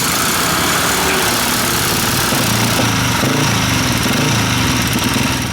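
Racing motorcycle engines running hard, their pitch climbing and falling as they rev through the gears.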